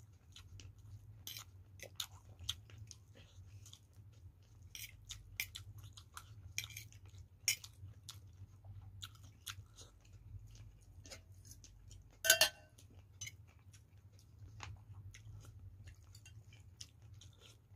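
A person chewing boiled chicken close to the microphone, with many small scattered clicks and crunches and one louder clink about twelve seconds in. A steady low hum runs underneath.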